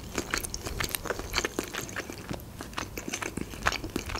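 Close-miked chewing: wet mouth clicks and bites at an irregular pace as soft food is eaten.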